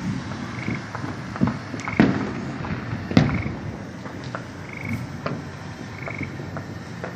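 Distant fireworks going off: scattered pops and crackles, with two heavier booms about two and three seconds in. A short high chirp repeats steadily about once a second over the top.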